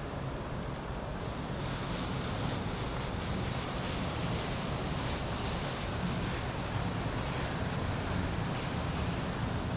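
Steady low rumble of passing boat motors mixed with water washing and wind on the microphone, a little louder after the first second or so.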